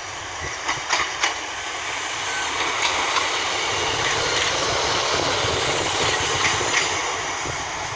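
British Rail Class 153 single-car diesel multiple unit moving through the station, its steady running noise swelling and easing, with scattered sharp clicks of wheels over rail joints.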